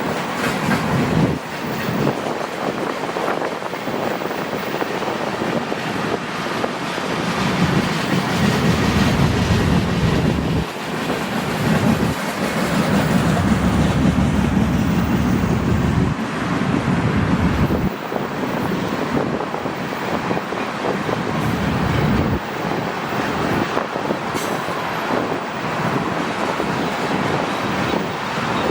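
Freight train cars rolling past on the track, a steady rumble of wheels on rail that swells and dips as the cars go by.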